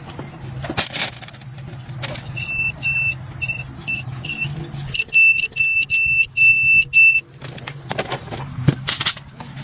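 An electronic beeper sounding about a dozen short, high beeps of uneven length in an irregular string, starting a couple of seconds in and stopping about two seconds before the end, over scattered knocks and a low hum.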